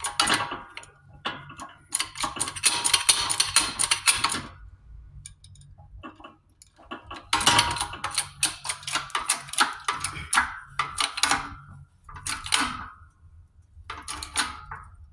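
Hand ratchet wrench clicking in quick runs of sharp ticks, with pauses between strokes, while a nut on the Mack power divider is snugged down.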